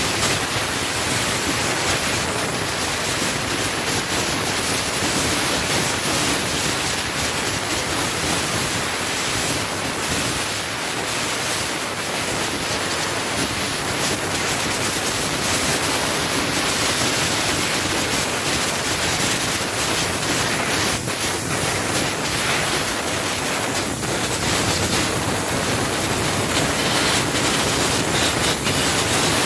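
Pressure-washer wand spraying, a steady hiss of a high-pressure water jet rinsing the cleaning product off an engine bay, with no breaks.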